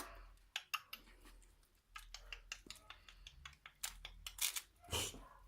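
Three-week-old kelpie puppies moving about, making quick irregular little clicks and scratches, with a short louder scuffle near the end.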